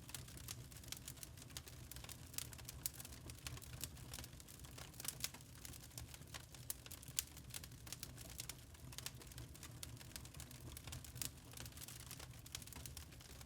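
Wood fire in a fireplace crackling: a dense, irregular patter of small pops and snaps, with a few sharper ones, over a steady low rumble.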